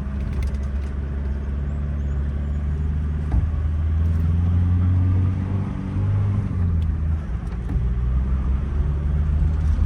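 Pickup truck engine running under load while driving through soft beach sand, a steady low drone whose pitch rises and falls slightly around the middle as the truck turns.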